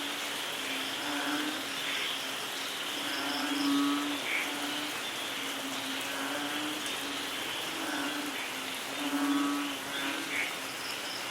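Steady rain falling, with low pitched calls repeating every one to two seconds over it and a faint high chirping.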